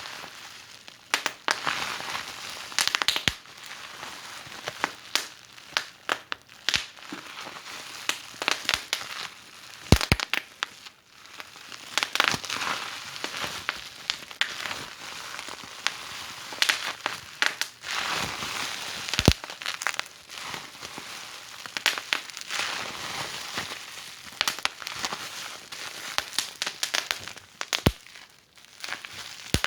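Wood fire burning in a fireplace, crackling steadily over a soft hiss, with irregular sharp pops, the loudest about 10 and 19 seconds in.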